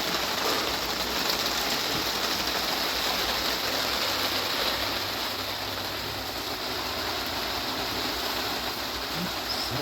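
Heavy rain falling, a steady, even hiss with no break.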